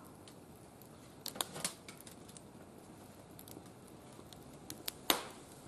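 Wood fire crackling: scattered sharp pops and clicks over a low background, a few about a second and a half in and the loudest just after five seconds.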